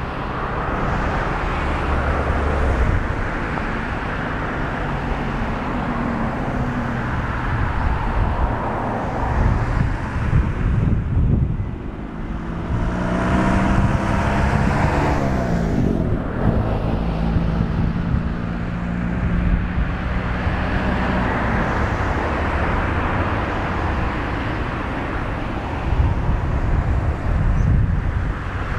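Distant Boeing 777-200 jet engines running during pushback, a steady low rumble and hiss with gusting wind on the microphone. Near the middle, a cluster of tones sweeps in pitch for a few seconds.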